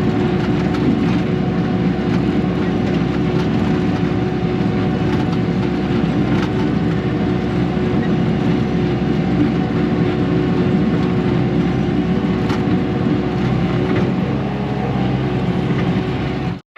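Heavy earthmoving machine's diesel engine running steadily, with a steady whine over it and a few faint knocks; it cuts off suddenly near the end.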